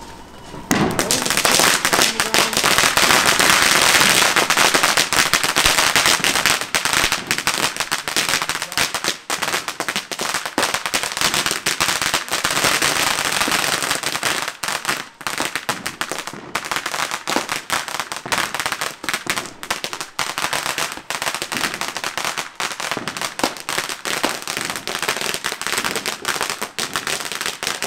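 Firecrackers going off in a rapid, continuous crackling string of sharp bangs. It starts about a second in, is densest over the first few seconds, then keeps crackling a little more thinly.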